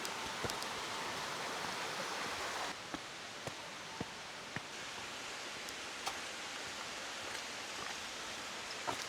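Steady rush of falling water from a waterfall or stream, with scattered sharp clicks. The water sound shifts abruptly about three seconds in.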